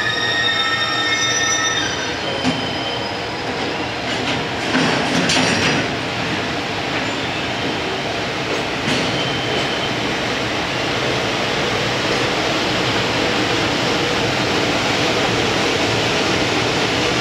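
EF210 electric locomotive and its container freight wagons rolling slowly past while pulling into a station. Several high steady tones sound for the first two seconds, then a steady rumble of wheels on rail with a few clanks.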